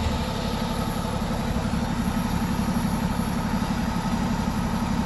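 A vehicle engine idling steadily with a low, rapid pulsing rumble.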